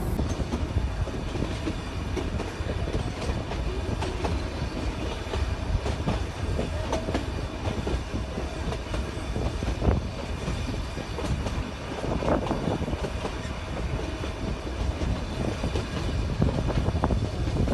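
Train running on rails: a steady low rumble with repeated clicks of the wheels over the rail joints.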